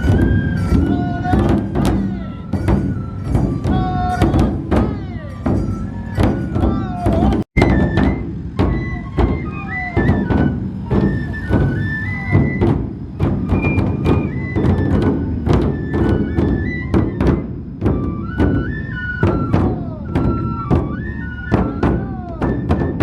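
Matsue dō procession music: large dō drums struck in a fast, steady rhythm under a bamboo flute playing a melody of held notes. The sound cuts out for an instant about seven and a half seconds in.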